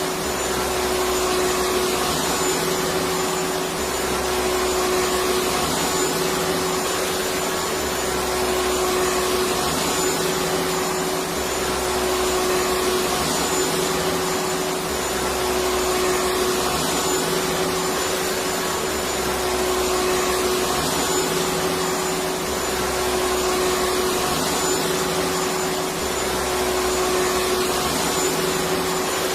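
Electric vacuum cleaner running steadily: an even rushing noise over a steady hum, with a faint low pulsing that comes back about every three and a half seconds.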